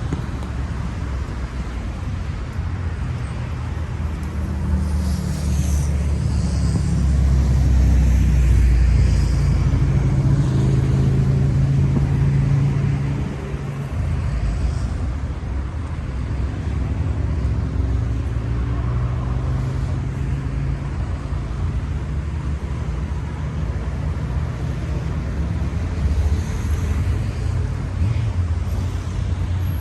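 Road traffic: cars passing one after another with a continuous low rumble, loudest from about seven to thirteen seconds in.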